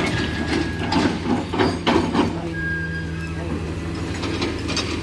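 Heavy diesel engine running steadily, with a burst of clanks and knocks about one to two seconds in.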